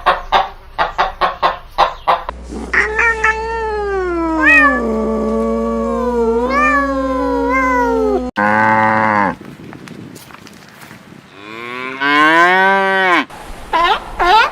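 Farm animals calling in quick succession: a fast quavering bleat for about two seconds, then one long drawn-out moo of about six seconds that wavers as it falls in pitch, then after a sudden cut a short low call and another rising-and-falling call near the end.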